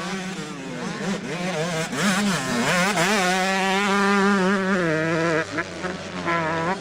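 Motocross bikes racing, their engines revving up and down through gear changes. One bike grows louder about two seconds in, holds high revs, then drops away about five seconds in, over a steady low hum.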